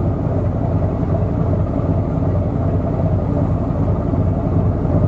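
Steady low drone of a boat's diesel engine running at constant speed, with no change in pitch or level.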